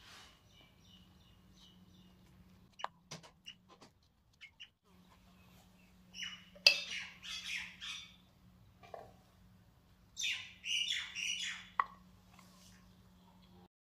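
Small birds chirping in two bursts of quick high calls, with a few sharp clicks earlier and a low steady hum underneath.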